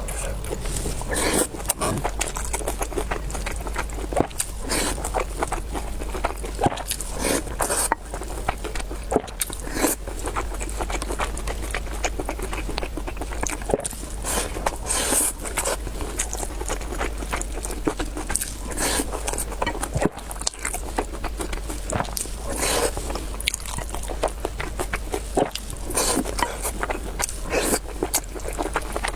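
Close-miked eating: irregular chewing, smacking and slurping mouth sounds with frequent short clicks, over a steady low hum.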